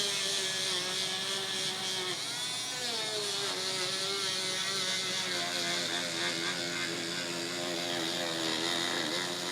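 Small handheld electric sanding tool running steadily while sanding a sneaker's toe box, its motor hum dipping in pitch briefly a couple of times as it is pressed into the shoe.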